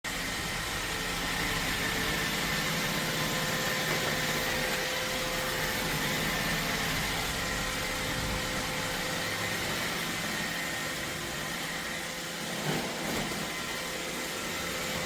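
iRobot Roomba Vac Essential robot vacuum running: a steady whir with a faint high whine, and a few light knocks near the end.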